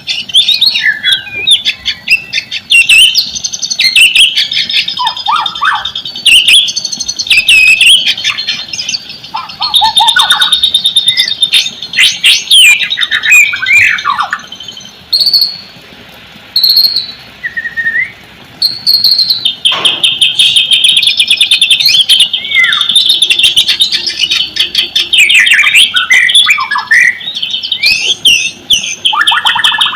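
White-rumped shama (murai batu) singing loudly: a fast, ever-changing stream of whistles, trills and rattling phrases, with a brief lull of a few scattered notes around the middle.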